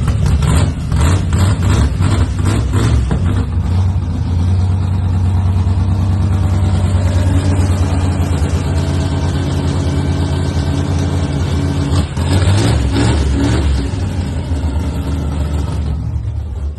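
A freshly rebuilt engine with a big lumpy camshaft running on its first starts: rough and uneven for the first few seconds, then settling into a steady, loping idle, with a brief rev about twelve seconds in. The level drops away near the end.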